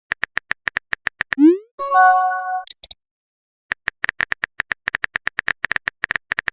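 Phone-keyboard typing clicks in quick runs of about eight taps a second, then a rising swoosh as a chat message is sent and a short notification chime of several steady tones. After a pause of about a second, a second, longer run of typing clicks starts.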